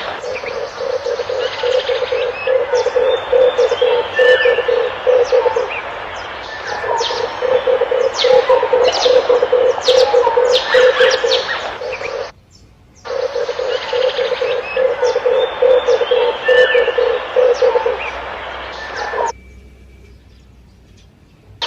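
Red turtle dove cooing in long phrases of rapid low pulses, a recorded lure call, with other birds' sharp chirps over it. The recording drops out for under a second a little past halfway and stops about two seconds before the end.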